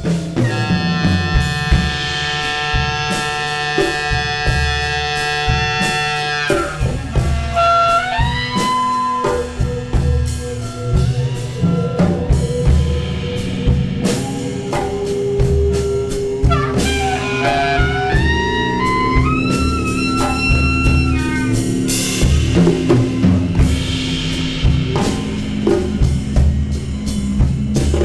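Free-improvised jazz ensemble playing: drums and percussion hit busily throughout. Over them, a held chord of many tones lasts about six seconds, then sliding, bending melodic lines follow.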